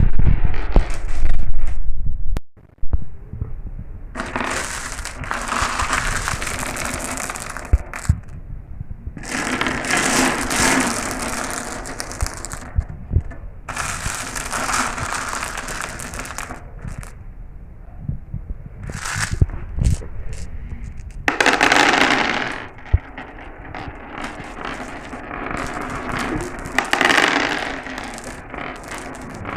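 Marbles rolling and clattering down a marble run track, in repeated runs a few seconds long with sharp clicks as they strike the track. A loud stretch at the start cuts off suddenly.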